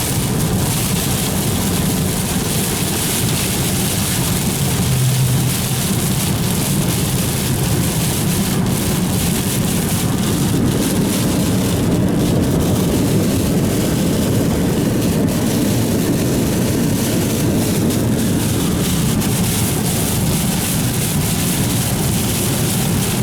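Steady rushing noise of heavy rain, with a vehicle running underneath.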